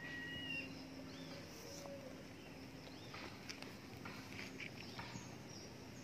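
Faint bird calls in tree canopy: a thin, slightly rising whistled note in the first half second, then a few short chirps between about three and five seconds in, over a faint steady low hum.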